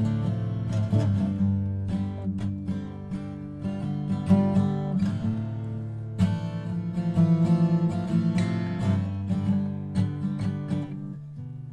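Acoustic guitar being played: picked notes and chords that ring on, a few plucks a second.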